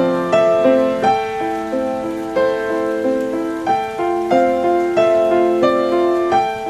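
Background piano music: a gentle tune of struck notes in a steady rhythm.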